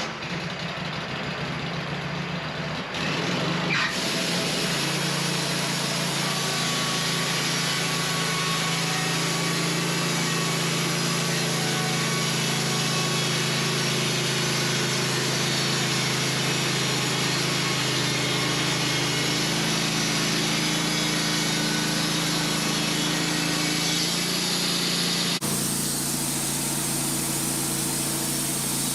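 Wood-Mizer LT15 band sawmill's engine starting and running steadily; about four seconds in the band blade engages and saws through a larch log with a steady hum and hiss. Near the end the sound changes abruptly.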